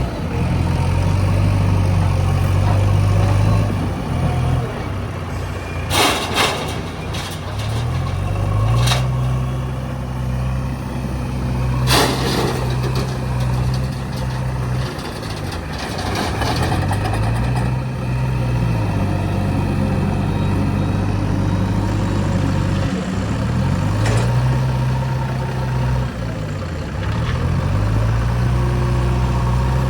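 Backhoe loader's diesel engine working, revving up and dropping back again and again. A few short, sharp sounds come through along the way.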